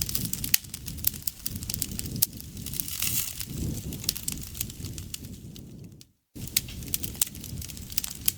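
Wood campfire crackling and popping in quick, irregular snaps over a low rumble of burning. The sound cuts out completely for a moment about six seconds in.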